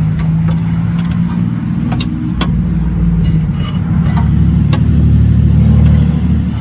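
A steady low motor hum that grows a little louder after about four seconds, with a few sharp metal clicks and clinks from parts and tools being handled.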